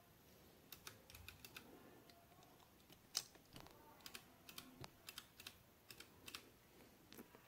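Faint, irregular plastic clicks from an RK61 mechanical keyboard's keycaps and switches being handled.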